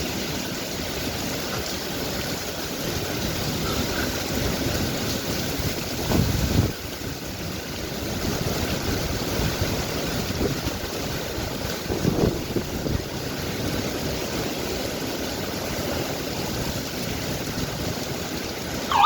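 Heavy thunderstorm rain and wind as a steady rushing noise, with two brief low bursts, about six seconds in and again near twelve seconds.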